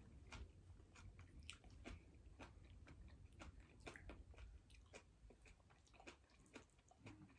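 A person chewing and biting food close to the microphone: faint wet mouth clicks and small crunches, about two or three a second.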